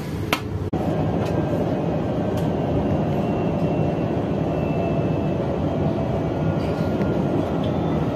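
A moving KTM ETS electric train heard from inside, a steady rumble of running on the track with a faint steady whine over it. There is a short click near the start.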